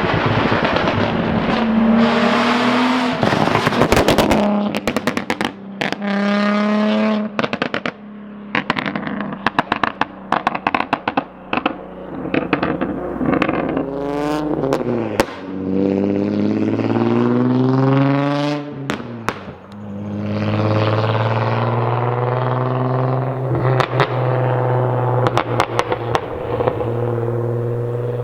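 Infiniti G35 coupe's 3.5-litre V6 heard through a Tomei single-exit straight-through exhaust, revving up and falling back several times, with rapid crackles and pops as the revs drop. It settles into a steadier, deeper drone near the end.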